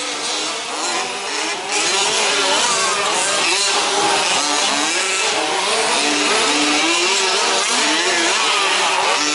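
Several 1/5-scale petrol RC off-road trucks racing together, their small two-stroke engines revving up and down over one another, louder from about two seconds in.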